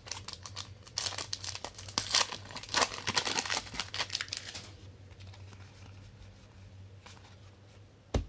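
A trading-card pack wrapper being torn open and crinkled: a run of tearing and crackly rustling for about four seconds that then drops to light handling, followed by a single sharp click near the end.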